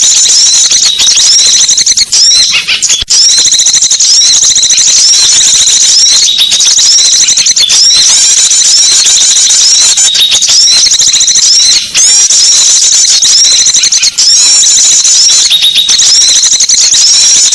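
Dense, non-stop high-pitched chirping and twittering of many small songbirds at once: a small-bird lure call ('pikat burung kecil') used to draw wild birds in. The chirps come in fast, overlapping runs at a steady, loud level.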